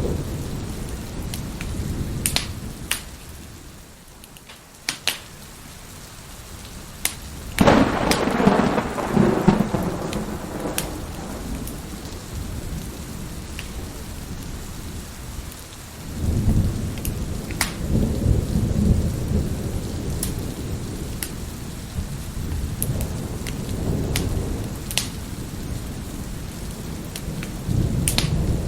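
Thunderstorm with steady rain: a sharp thunderclap about a third of the way in that rolls away over several seconds, and another long rumble of thunder in the second half. Scattered sharp pops of a crackling wood fire sound throughout.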